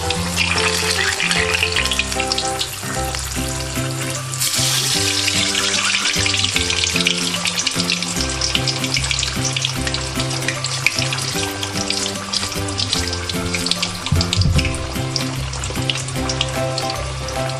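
Hot oil sizzling and crackling around a whole ginseng fruit (pepino) deep-frying in a pan; the sizzle gets louder about four and a half seconds in. Background music plays underneath.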